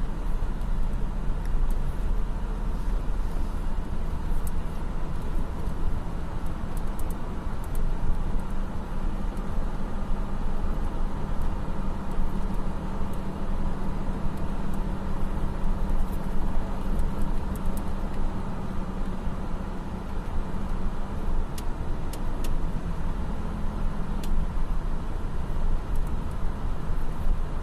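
Diesel engines of heavy earthmoving machinery running steadily: a continuous low engine drone.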